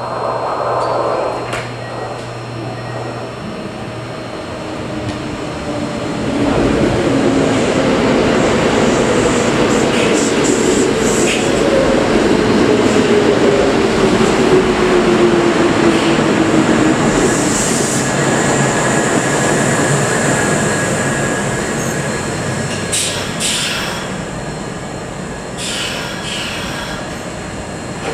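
A Kintetsu limited express train pulling in on the adjacent platform track. The rumble of its wheels on the rail builds about six seconds in, with a falling motor whine as it slows to a stop. Short bursts of air hiss come near the end.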